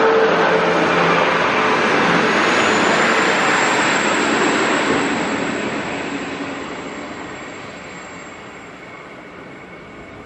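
Two-car diesel multiple unit train pulling away, its running noise loud at first and then fading steadily over the second half, with a thin high whine held above it.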